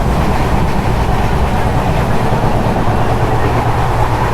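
Steady rumble of a moving passenger train, heard from aboard the coach.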